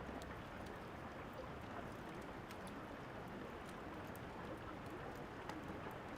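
Steady rain with the scattered small pops and snaps of a crackling wood fire.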